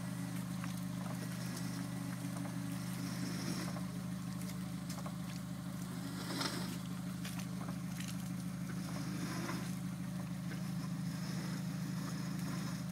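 Car engine running steadily at an unchanging pitch, with a brief rush of noise about six and a half seconds in.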